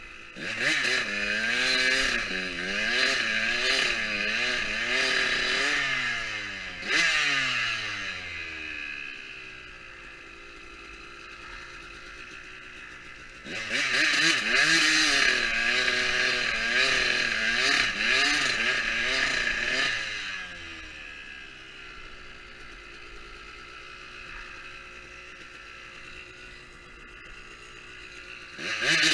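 Motocross dirt bike engine revving hard, its pitch climbing and dropping again and again through the throttle and gears. There are two loud stretches, at the start and again from about halfway in, with a quieter, steadier engine sound between them and near the end.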